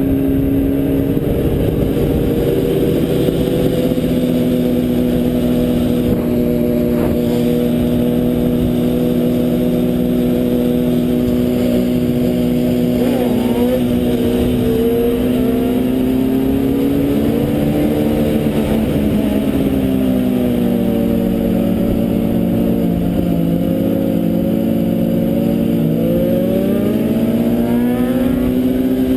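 A motor vehicle's engine running at a steady cruise over a constant low rumble of road and wind noise. Its pitch sags and climbs gently a few times in the second half.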